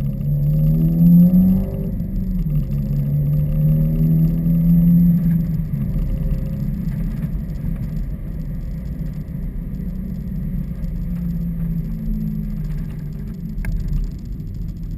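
2015 Subaru WRX's turbocharged flat-four with its axleback mufflers deleted, pulling with a rising note. The pitch drops about two seconds in, climbs again, then settles to a lower, steady note from about six seconds.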